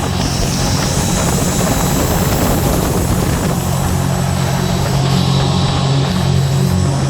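Scarab 165 ID jet boat's three-cylinder Rotax 1503 4-TEC engine running steadily as a low, even drone, with a rushing hiss over it.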